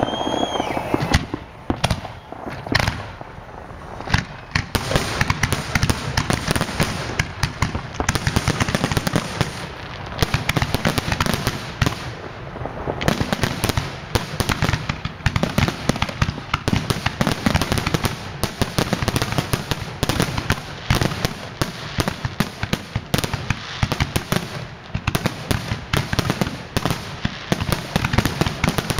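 Fireworks display: a dense, rapid barrage of bangs and crackling, thinning briefly a few seconds in before building back up.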